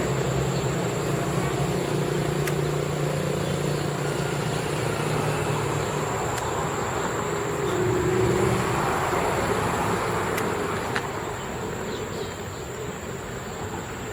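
Steady outdoor background noise, with a low hum from road traffic that fades after about six seconds and a constant high-pitched whine.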